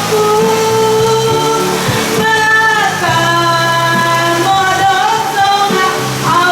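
A woman singing long, held notes over backing music, live.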